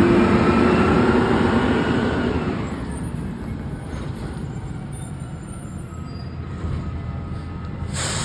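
Garbage truck's engine running loud for about two and a half seconds, then dropping to a lower idle. A short hiss of air near the end.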